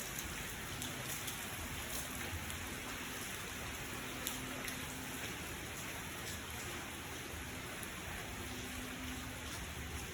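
Steady rain falling and pattering on surfaces, with scattered drop ticks and one sharper tick about four seconds in.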